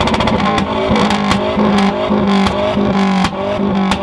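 Car engine held on a two-step launch-control rev limiter: a buzzing note that stutters on and off, broken by rapid sharp exhaust pops and bangs.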